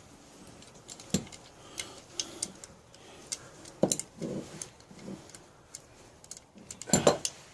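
Ratchet wrench clicking in short runs as bolts on a pocket bike engine are backed out, with a few louder metal knocks of tools, near the middle and near the end.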